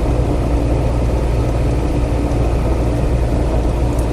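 Motorcycle engine running at a steady cruise, with a constant low hum and road noise.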